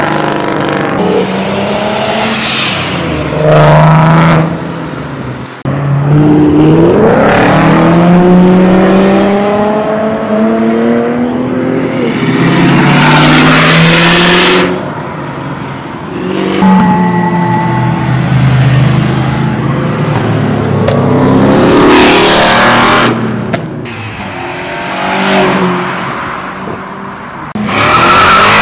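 Several sports cars accelerating hard past one after another, their engines revving up through the gears, pitch climbing and dropping again and again as each car comes and goes.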